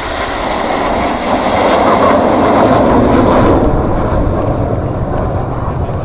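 Formation of nine BAE Hawk T1 jets flying past, a loud rushing jet roar that swells to a peak in the middle. After about three and a half seconds the higher hiss drops away as the jets pass, leaving a lower roar and a wind rumble.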